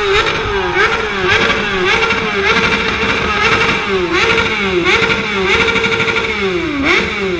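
Superbike engine revved hard again and again while stationary, the throttle blipped about once a second so the pitch keeps dipping and snapping back to a high, held note, then dropping away right at the end.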